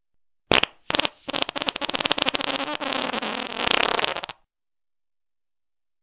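Fart sound effect: a long, rapid sputtering with a buzzing pitch, starting about half a second in and stopping abruptly after nearly four seconds.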